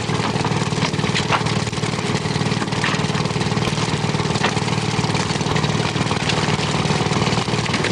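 Fishing boat's engine running steadily with a fast, even throb.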